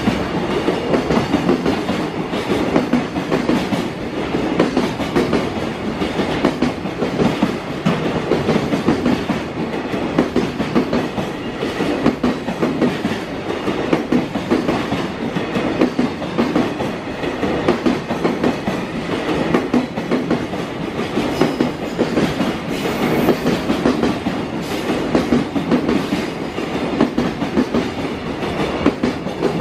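Long container freight train passing, its flat wagons' wheels rumbling steadily and clicking over the rail joints in an unbroken clickety-clack.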